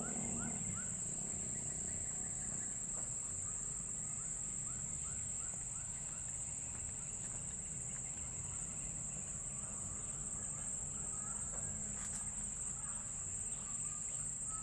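Steady, high-pitched drone of insects, with two short runs of quick rising chirps, one at the start and one about four to six seconds in.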